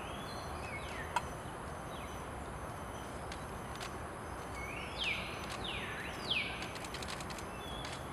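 A bird gives short whistled notes that fall in pitch, a few faint ones near the start and three louder ones in quick succession a little past the middle, over steady low background noise. A single sharp click sounds about a second in.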